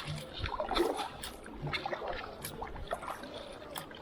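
Kayak paddling on a creek: water splashing, dripping and trickling off the paddle in a run of small irregular splashes.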